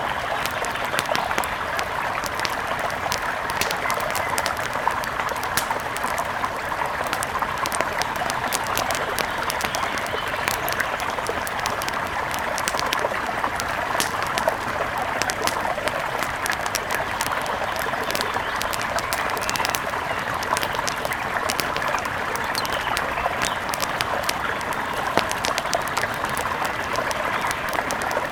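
Steady rush of a mountain river, with frequent sharp crackling pops of an outdoor wood fire scattered through it.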